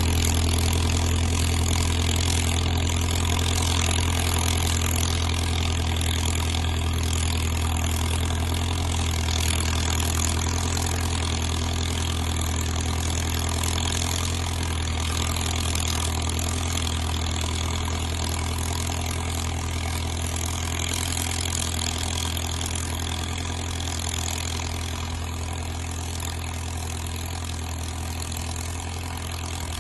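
Caterpillar bulldozer's diesel engine running steadily at an even speed, slowly growing fainter.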